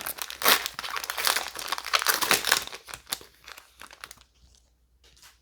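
Booster pack wrapper crinkling as it is handled and opened, a dense crackling that thins out and dies away about four seconds in.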